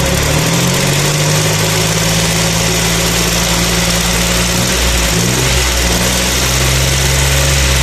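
Daihatsu Charade G100's three-cylinder engine being revved on the accelerator while parked. Its speed rises about half a second in and is held, drops briefly near five seconds, then is raised and held again.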